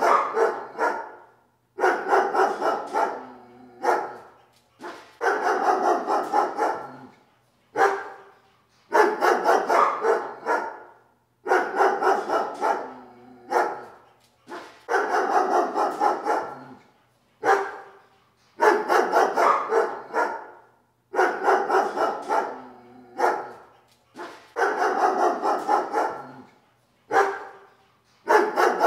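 A dog barking over and over in runs of quick barks, each run a second or two long, with short pauses between them.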